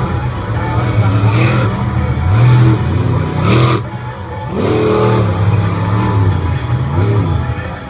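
Vehicle engines revving up and down, their pitch rising and falling several times. A short hissing burst comes about three and a half seconds in.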